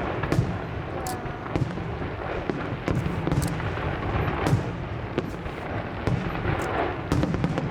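Fireworks display: many shells bursting in quick succession, with sharp bangs and crackles over a continuous low rumble.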